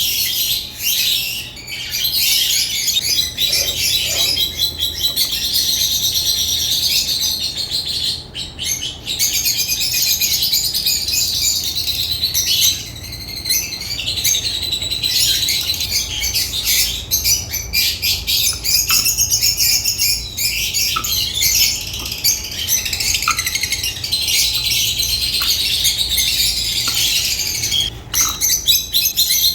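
African lovebirds chirping and chattering nonstop, a dense, high-pitched stream of calls.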